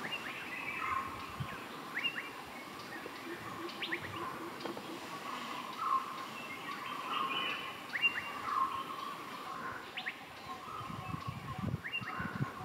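Wild birds calling in the forest: many short, sweeping whistled notes and chirps from several birds throughout, with a few soft low thumps near the end.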